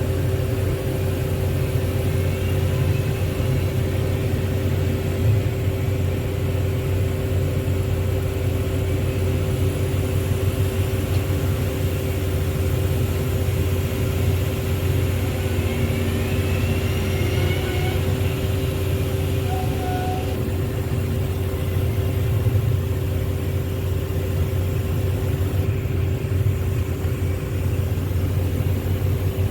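Heavy diesel engine running steadily at a constant speed, a low, even drone with no revving or pauses.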